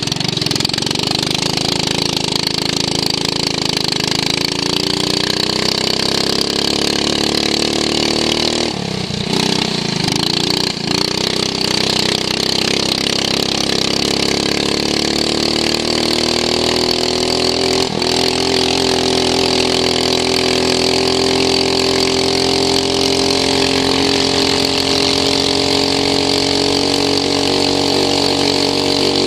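Racing lawn mower's engine heard onboard, its revs climbing over the first several seconds. It eases off briefly around nine to eleven seconds in, then climbs again and holds at high revs.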